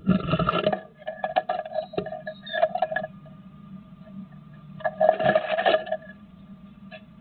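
Great tit scrabbling inside a wooden nest box, its claws scraping and tapping on the wooden floor and walls as it rustles moss and grass nesting material. The scraping comes in three bursts of quick clicks over a faint steady hum.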